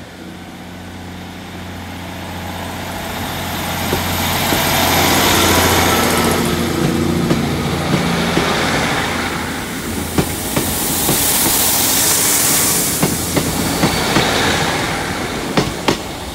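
Two coupled Class 150 Sprinter diesel multiple units, with underfloor Cummins engines, pull away and pass close by. The engine drone swells over the first few seconds, then a rushing noise and a run of wheel clicks over the rail joints follow as the coaches go past.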